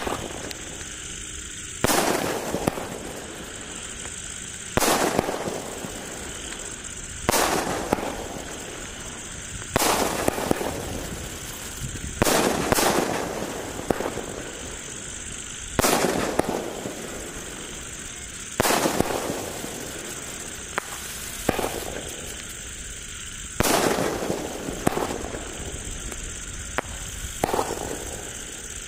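A 30-shot aerial firework cake firing: about a dozen sharp bangs, two to three seconds apart, each trailing off in a fading crackle over a steady hiss.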